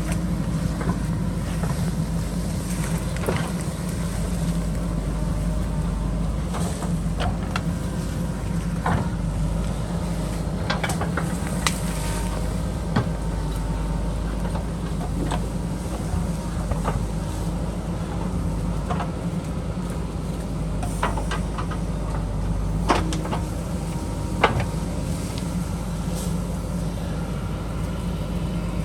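JCB backhoe loader's diesel engine running steadily under working load, with scattered sharp clanks and knocks from the bucket and the soil and stones it works, a louder pair near the end.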